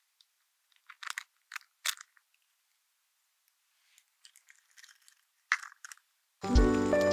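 Short crunching bites of food being chewed, in two brief groups with silence between. Background music starts near the end.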